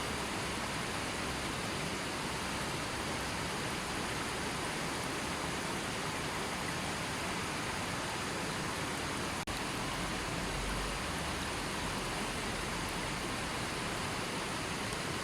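River water flowing steadily, an even rushing hiss with no birds or other sounds over it. A split-second dropout about nine seconds in.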